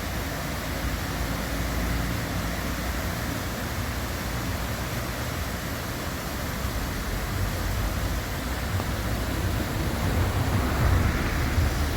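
Steady city street ambience: an even wash of outdoor noise with a heavy low rumble, growing a little louder near the end.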